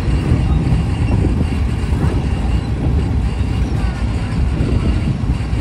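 Passenger train running along the line, heard from an open carriage window: a loud, steady low rumble of wheels on the rails mixed with rushing air.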